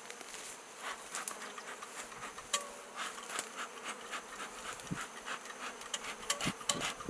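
Swarm of honey bees buzzing, a steady hum with many short clicks and ticks scattered through it.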